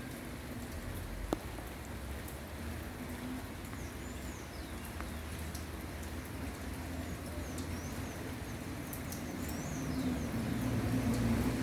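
Light rain falling steadily, with a bird's short sweeping chirps now and then. A motor vehicle's engine grows louder near the end as it approaches.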